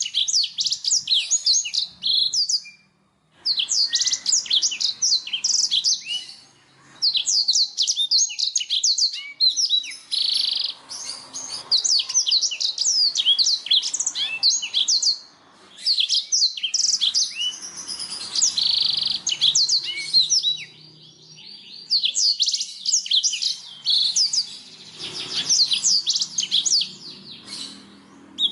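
Blackthroat (black-throated canary) singing long phrases of rapid, high twittering and trills, broken by short pauses a few times.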